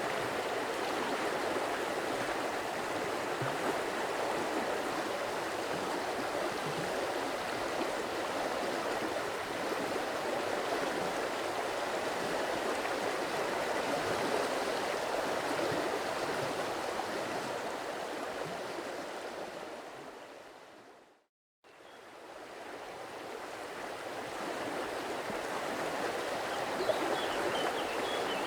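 Steady rushing of a flowing stream. About two-thirds through it fades out to a moment of silence, then fades back in. A few faint bird chirps come near the end.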